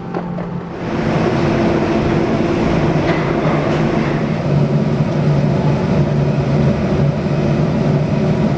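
Steady low drone of running machinery with a rushing air noise, setting in abruptly about a second in after a quieter stretch.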